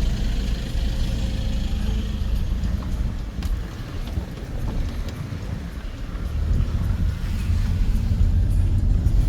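Low rumble of a car's engine and tyres heard from inside the moving car, easing off in the middle and growing louder again near the end.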